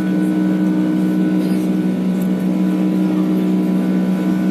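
Airliner engines heard from inside the passenger cabin: a loud, steady drone with a low hum that holds an even pitch.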